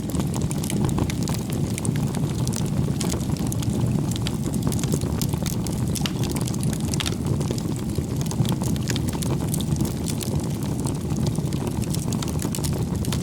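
Firewood burning in a bonfire: a steady low rush of flames with frequent sharp crackles and pops of the burning wood.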